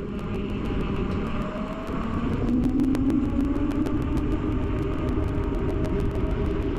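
Wind and rolling noise picked up by a bicycle-mounted action camera while riding: a steady low rumble with a hum and a rapid run of faint ticks.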